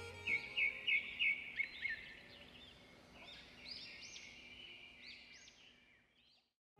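Small birds chirping and twittering: a quick run of bright repeated chirps, then scattered rising-and-falling calls that fade out near the end. Background violin music ends just as the chirping begins.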